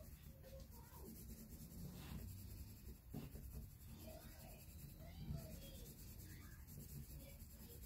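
Faint scratchy rubbing of a coloring tool shading in on paper.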